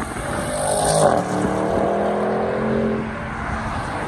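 Audi's engine and exhaust as the car drives past under power, loudest about a second in and then running fairly steady.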